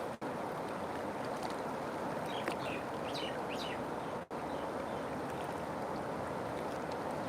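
River water flowing in a steady rush, with a few short bird chirps about halfway through. The sound cuts out for a split second twice.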